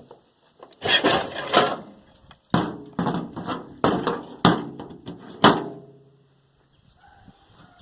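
Metal junk being handled and knocked about: a burst of clattering about a second in, then half a dozen sharp knocks and clanks, the last the loudest, some of them ringing briefly.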